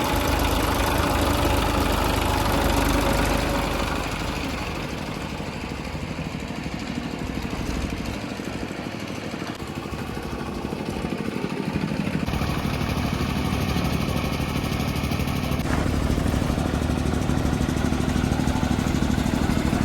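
Massey Ferguson 241 DI tractor's three-cylinder diesel engine running. It drops back for several seconds in the middle, then picks up again with a steady, rapid low beat.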